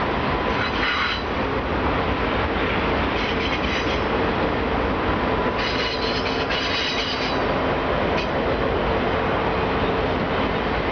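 Union Pacific autorack freight cars rolling past on a downgrade: a steady rumble of wheels on rail with repeated bursts of high-pitched wheel squeal, the longest about six to seven seconds in.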